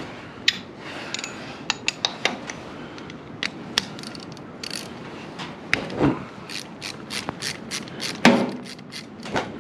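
Ratchet wrench working a spark plug loose from a 1947 Case Model S tractor engine: scattered metal clicks and taps, then a fast run of ratchet strokes from about six seconds in.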